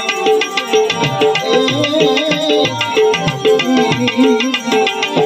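Devotional bhajan music between sung lines: tabla playing a fast, steady rhythm under a wavering melodic line.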